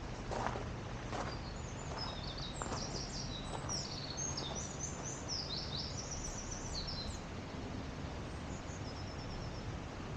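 A songbird singing quick runs of high, stepped chirping notes, mostly in the middle of the stretch with a fainter phrase near the end, over a steady outdoor background hiss.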